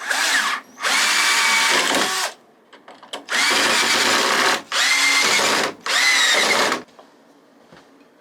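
Handheld electric power tool, drill-like, running in five short bursts of about half a second to a second and a half, its motor whine shifting in pitch as it loads and spins down.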